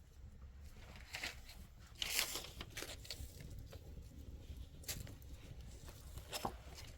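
Rustling and crinkling handling noise, a few short bursts about a second apart, the loudest about two seconds in.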